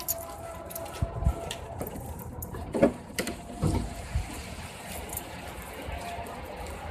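Rain falling, a steady hiss with many quick drip ticks. Several dull low thumps come through in the first half.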